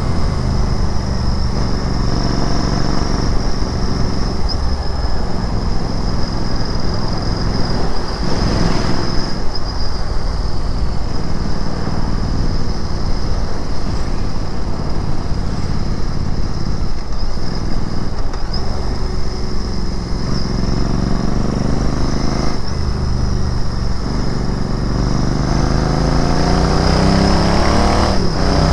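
Royal Enfield Interceptor 650's 648 cc parallel-twin engine and exhaust, ridden in city traffic. The engine note rises and falls with throttle and gear changes, with brief dips several times and a climb in pitch near the end.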